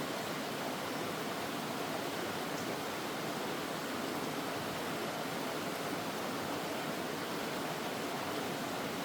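Mountain valley stream flowing steadily, an even rush of water with no break or change.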